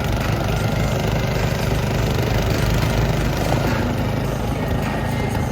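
A vehicle engine running steadily close by, a continuous low rumble.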